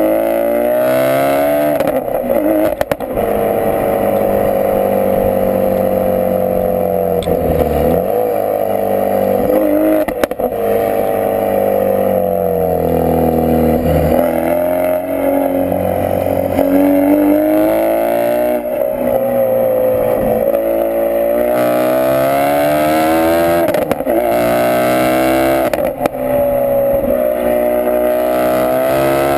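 Ford Focus RS mk3's 2.3-litre turbocharged four-cylinder running through a Milltek Sport non-resonated, decatted exhaust, pulling through the gears: the engine note climbs steadily, then drops sharply at each shift, several times over.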